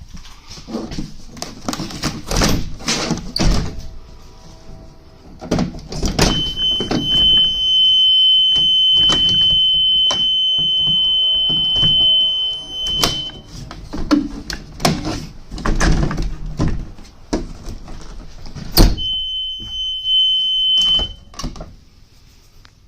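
A 2012 Thomas C2 school bus's steady, high-pitched warning buzzer sounds twice, first for about seven seconds, then for about two, each time switched on and off with a hard thunk, amid repeated clunks and knocks of doors and latches being worked.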